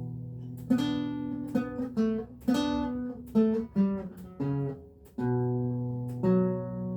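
Renaissance lute played solo: a ringing chord, then a run of plucked single notes and short chords, then two more sustained chords near the end, each note left to ring and fade.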